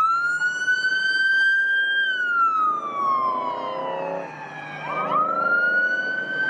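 Police car siren wailing. It sweeps up quickly, holds high for about two seconds, falls slowly, then sweeps up again about five seconds in and holds.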